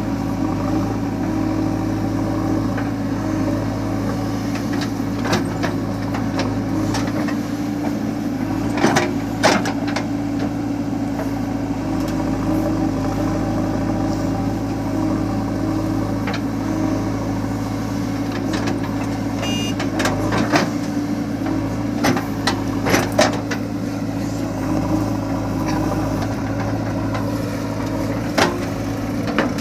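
Heavy diesel engine running steadily at a low, even speed, with a few sharp clanks and knocks now and then, several around a third of the way in and again in the last third.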